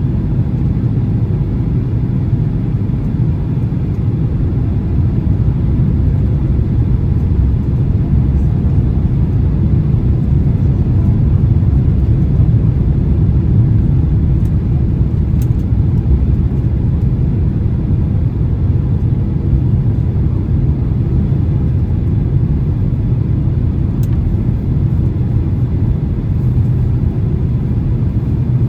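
Steady low rumble of engine and airflow noise inside the passenger cabin of a Boeing 767-300 in flight, growing slightly louder around the middle, with a couple of faint clicks.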